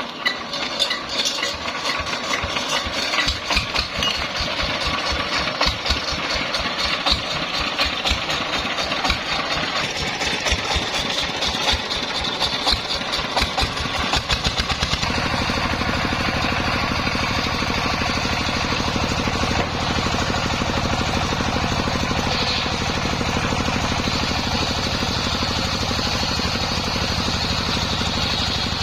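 Engine of a home-built circular saw rig starting up and running unevenly, with irregular pulses. About halfway through it settles into a steady, even run.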